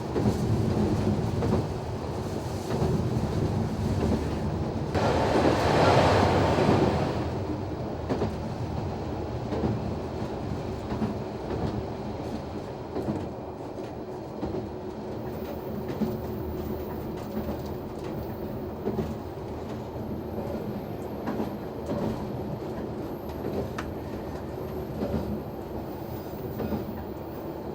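NT100 diesel railcar running along the line, heard from the driver's cab: engine drone with wheels clattering over rail joints. About five seconds in, a louder rushing surge lasts a couple of seconds, then the steady running noise goes on.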